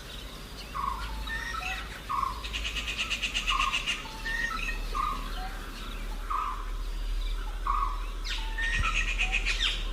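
Birds calling: a short call repeated about once a second. A fast, high trill comes in twice, once early on and again near the end.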